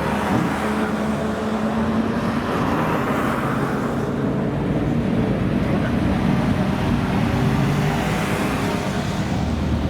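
A car engine running steadily, a low engine tone over road noise, with no clear rev rises or drops.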